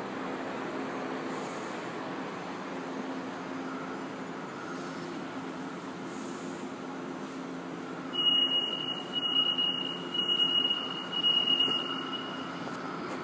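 São Paulo Metro train stopped at the platform with a steady electrical hum, then a high single-pitched warning tone beeps about four or five times, each about a second long, signalling the doors are about to close.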